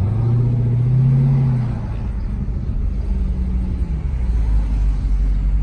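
2018 Jeep Grand Cherokee Trackhawk's supercharged 6.2-litre V8 with a Borla ATAK cat-back exhaust, revving up at the start, holding for a couple of seconds, then easing off, over a steady low road rumble.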